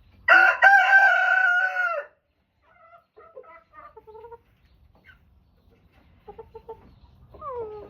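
A rooster crows once, loud and held for about two seconds, dropping at the end. Softer, broken clucking from the flock follows.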